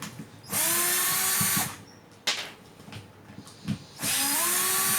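Hitachi 12V cordless drill-driver running in two bursts of about a second each, its pitch rising as the motor spins up, while backing out the housing screws of a drill. Small handling clicks fall between the bursts.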